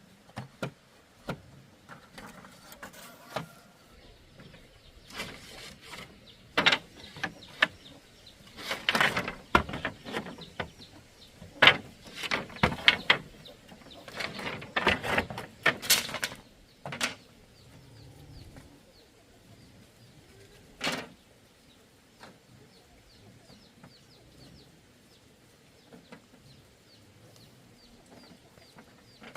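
Irregular knocks and clattering of hard objects, busiest through the middle, then a quieter stretch with faint, rapid high bird chirps.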